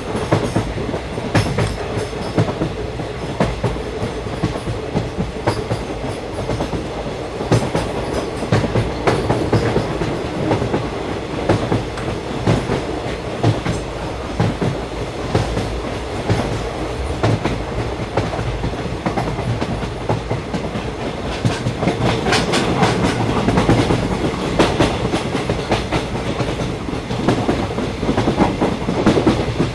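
Passenger train running along the track, heard from inside the carriage: a steady rumble with a constant run of clicks as the wheels pass over the rail joints.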